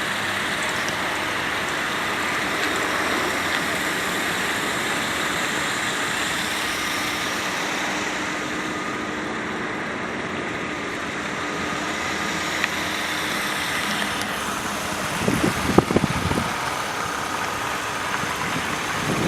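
Mercedes-Benz ML 320's 3.2-litre V6 idling steadily, a constant hum with a hissy edge. A short cluster of low thumps breaks in about three-quarters of the way through.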